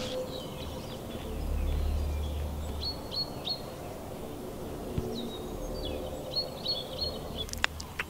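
Small bird chirping in short high notes, one group about three seconds in and another about six to seven seconds in, over a low outdoor rumble.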